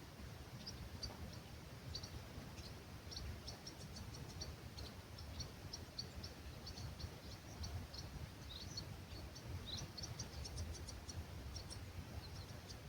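Small birds chirping at dawn, many short high notes in quick succession, over a low steady rumble of breeze.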